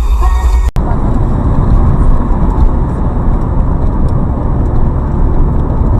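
Moving car's steady road and engine noise, starting abruptly after a cut less than a second in, where a short stretch of music breaks off.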